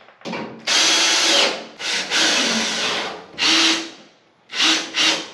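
Power drill driving screws in about six bursts, some brief and some about a second long, its motor spinning up and stopping between screws.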